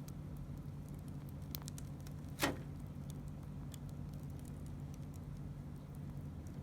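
Wood campfire crackling, with scattered small ticks and one louder sharp pop about two and a half seconds in, over a steady low hum.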